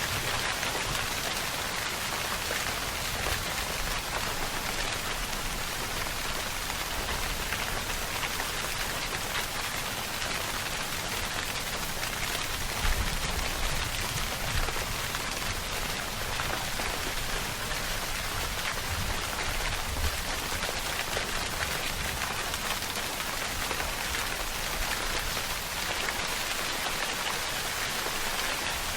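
Steady rainfall, an even hiss of drops falling on surfaces, with a few brief louder drops or splashes around the middle.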